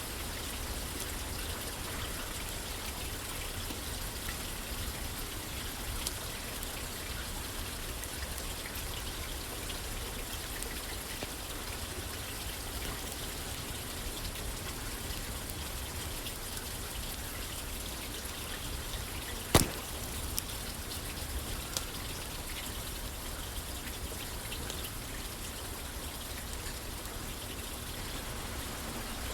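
Steady rain pattering on a roof, with an occasional sharp crackle from a wood fire, one much louder pop about two-thirds of the way through.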